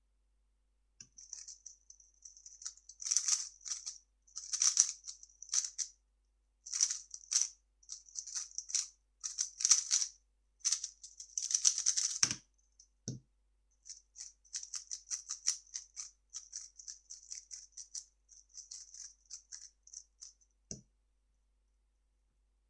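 A 3x3 speedcube being turned fast, its layers making a dense run of plastic clicks and rattles. A few dull knocks come in between, about twelve and thirteen seconds in and near the end.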